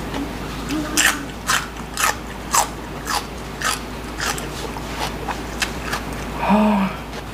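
Close-up chewing of raw celery stalk: crisp crunches about twice a second. Near the end, a short closed-mouth hum from the eater.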